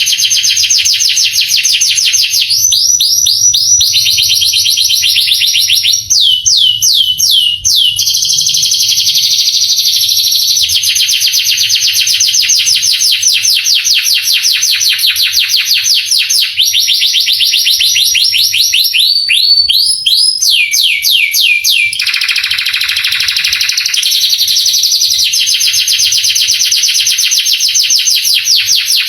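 Male canary singing a long, unbroken song of rapid trills, with runs of quick downward-sliding notes about three and six seconds in and again around twenty seconds.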